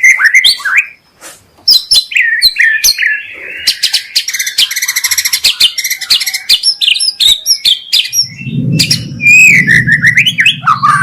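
White-rumped shama (murai batu) singing a fast, varied song of whistled phrases, sharp notes and a rapid buzzing trill. From about eight seconds in, a low hum runs underneath the song.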